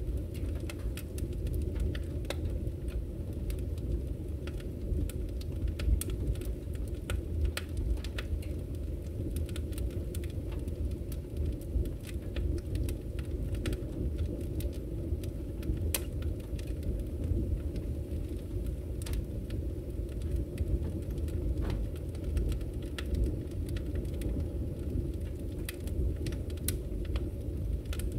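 Wood fire in a fireplace crackling: scattered sharp pops and clicks, irregular in timing, over a steady low rumble of the flames.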